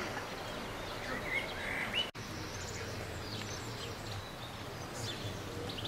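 Birds chirping over a steady outdoor background, with a short gap in the sound about two seconds in.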